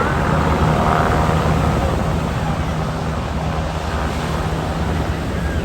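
Steady rumble of wind on the microphone and surf at the beach, with faint distant voices.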